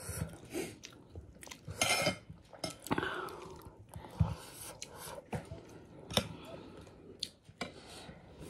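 Close-up mouth sounds of a person chewing a mouthful of biryani rice, with a spoon scraping and clicking against a ceramic plate as she scoops. The sounds are irregular short clicks and crackles.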